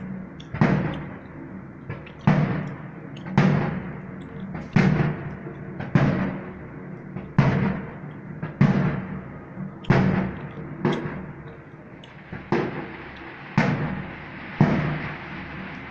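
Aerial firework shells bursting overhead, a sharp bang roughly every second, about a dozen in all, each one trailing off in an echo.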